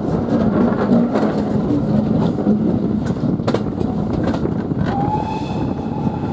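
Heritage railway locomotive running, heard from the cab: a steady engine hum with the wheels clicking now and then over rail joints. About five seconds in, the locomotive sounds a single long warning note that holds to the end.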